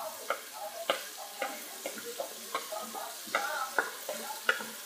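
Onion and ginger-garlic paste frying in oil in a pressure cooker pot, with a steady sizzle. Irregular sharp taps and scrapes of a utensil on metal come every half second or so as red chilli and turmeric powder are tipped in from a plate.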